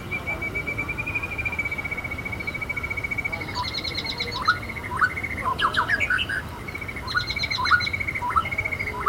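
Birds chirping and calling over a steady, rapid high trill, with bursts of short, sharp chirps in the middle and again near the end.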